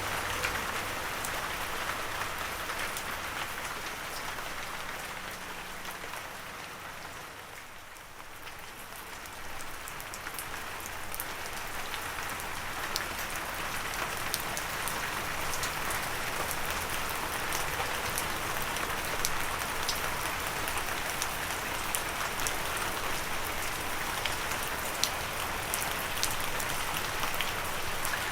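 Gentle rain falling steadily, with individual drops ticking sharply through it. The rain eases briefly about a quarter of the way in, then comes back up.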